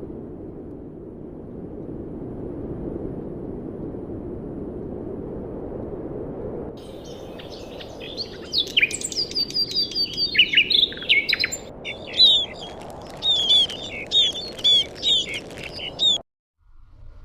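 A low, steady noise, then about seven seconds in a bird starts singing a fast series of loud, high chirps and short sweeping notes, which cuts off abruptly near the end.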